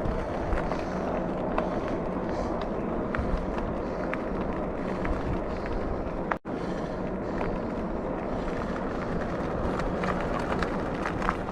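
Steady wind and road rush of a RadRover Step-Thru electric bike being ridden, with a brief break in the sound a little past halfway.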